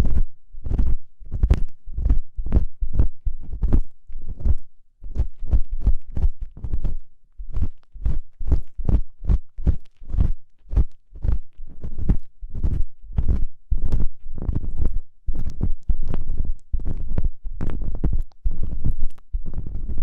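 ASMR ear pick scraping at a microphone's ear in quick repeated strokes, about two a second, each a short scratchy rub with a heavy low rumble.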